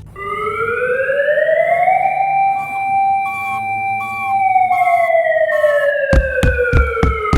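Police siren wailing: its pitch rises slowly for about two seconds, holds, then falls slowly for about three seconds. About six seconds in, a steady low thumping beat, roughly two to three a second, comes in under it.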